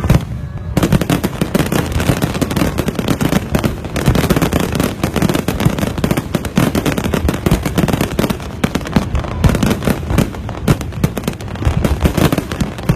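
Fireworks crackling: a dense, rapid stream of many small sharp bursts that comes in about a second in and carries on without a break.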